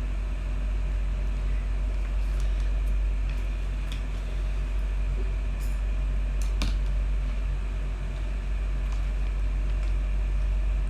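A steady low hum, like a fan or electrical hum, with a few faint clicks and taps over it.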